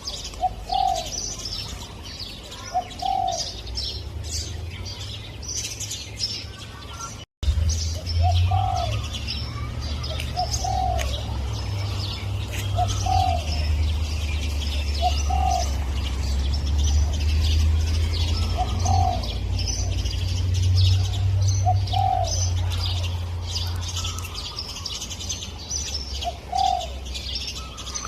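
Spotted dove cooing, short phrases repeated every two to three seconds, over the steady chirping of other small birds. The sound cuts out for an instant about seven seconds in, and a low rumble runs under the birds after that.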